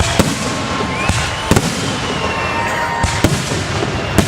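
Fireworks display: several sharp bangs of bursting shells roughly a second apart over a continuous crackle, with thin whistling tones that glide slowly in pitch.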